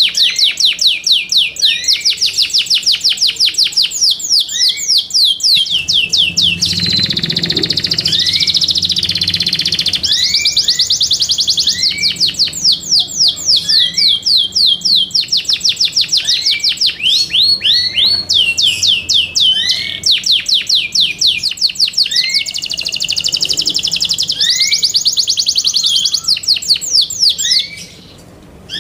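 Yorkshire canary singing: long rolls of rapid repeated sweeping notes, with a held whistled note about seven seconds in.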